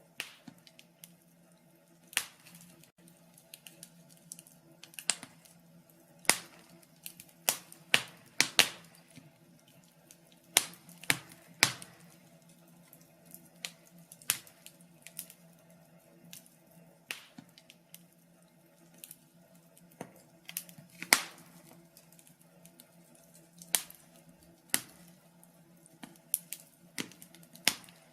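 Wood fire crackling in a fireplace: irregular sharp pops and snaps, one to several every couple of seconds, over a faint steady low hum.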